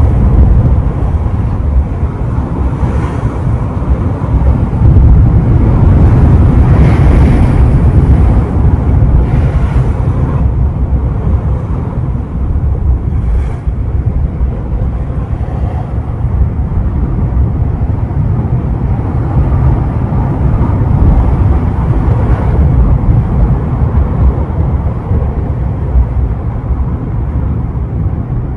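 Ocean surf rolling onto the shore, heavy wind buffeting the microphone with a deep rumble. The waves swell louder several times in the first ten seconds and once more past the twenty-second mark.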